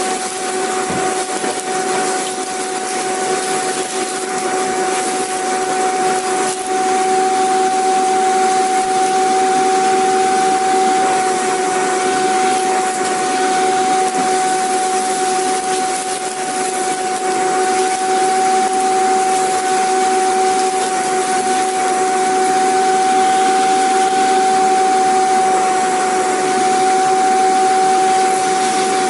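Vacuum cleaner running steadily: a constant motor whine over a rushing hiss of air, with no change in speed.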